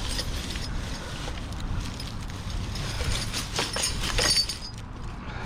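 Rummaging through a pile of scrap and junk: a few clattering knocks and rattles of items being moved about three to four seconds in, over a steady low rumble.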